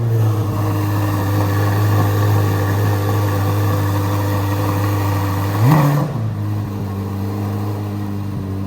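C8 Corvette Z06's flat-plane-crank V8 running at a steady cold-start high idle. About two-thirds through it gives one quick rev blip, then settles to a slightly quieter idle.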